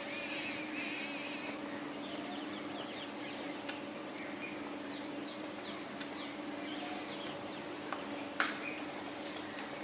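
Parrots calling: a warbling chirp at the start, then a run of about five quick, falling chirps in the middle. A sharp click comes near the end, over a steady low hum.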